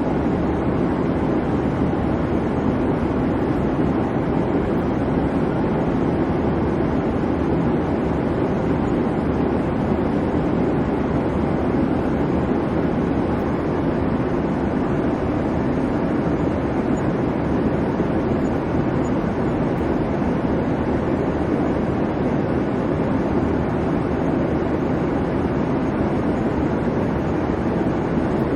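Steady airliner cabin noise in flight: an even, low rush of engine and airflow with no change or distinct events.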